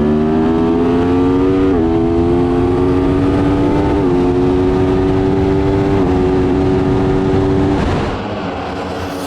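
Aprilia Tuono V4 Factory 1100's V4 engine accelerating hard, upshifting about every two seconds, each shift a brief dip in a steadily rising engine note. Near the end the throttle shuts and the engine note drops away, leaving mostly wind rush.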